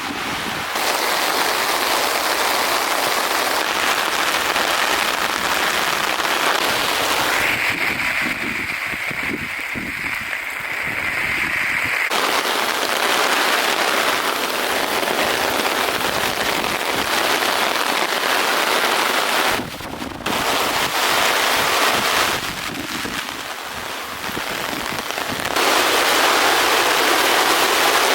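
Heavy rain pouring down in a thunderstorm downpour: a loud, dense steady hiss that changes tone abruptly several times.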